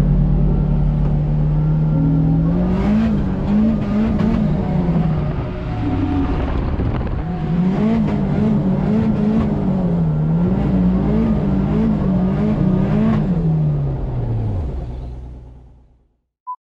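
The SR32 drift car's engine, heard from inside the cabin. Its revs hold steady at first, then rise and fall rapidly over and over while drifting, sag briefly about six seconds in, and bounce again before falling away and fading out. A single short beep sounds near the end.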